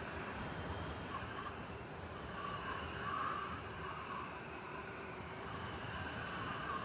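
Blizzard wind blowing steadily over a low rumble of city traffic, swelling briefly about three seconds in.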